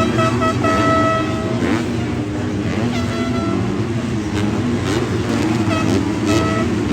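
Several motocross bikes running on the track, their engines revving up and down through the gears, with short bursts held at high revs.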